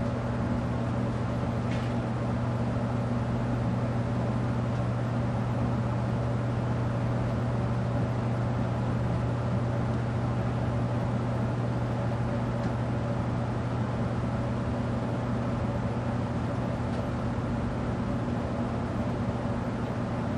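Vintage Evergo 48-inch spinner ceiling fan running at reduced speed on a solid-state variable speed control, its motor giving a steady electrical hum. The hum is brought out by the speed control at the lower speeds.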